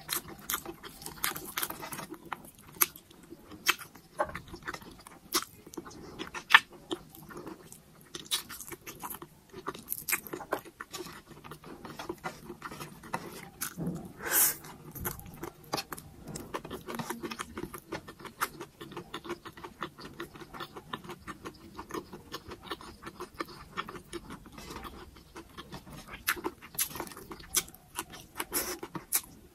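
Close-miked chewing and mouth sounds of someone eating rice and shredded cabbage by hand, made of many irregular sharp clicks. There is a louder bite about halfway through.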